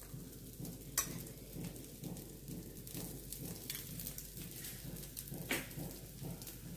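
Dosa frying on a hot griddle, the ghee drizzled over it sizzling with faint crackles and small pops, and a sharper pop about a second in and another later on.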